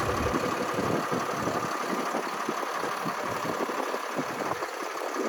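Snow-clearing salt truck's engine idling steadily, with wind buffeting the microphone in uneven low gusts.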